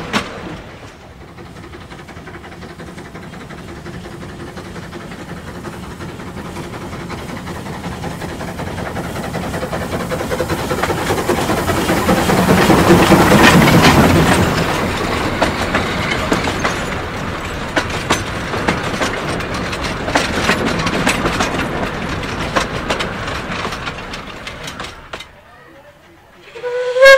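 Narrow-gauge steam-hauled passenger train approaching and passing close by, its carriage wheels clicking over the rail joints. It grows steadily louder to a peak about halfway, then fades as it moves away, and cuts off abruptly near the end. A brief loud high-pitched sound comes at the very end.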